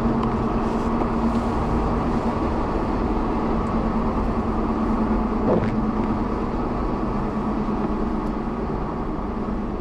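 Steady rumble and hum of a car heard from inside the cabin, gently fading near the end.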